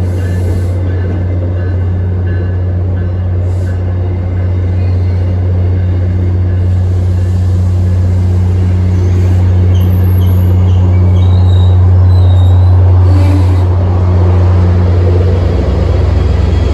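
EMD F40PH-3C diesel locomotive running under load as a commuter train departs: a loud, steady low drone that grows louder about ten seconds in.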